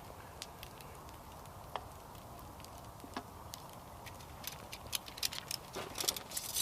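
Wood campfire crackling faintly: scattered sharp pops and ticks, coming thicker in the last couple of seconds.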